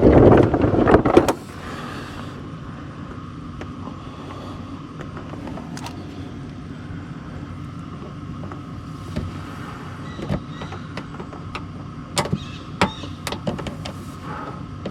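A small electric motor whirs loudly for about a second and a half at the start, then scattered sharp clicks and knocks of fasteners and tools being handled over a steady background hum.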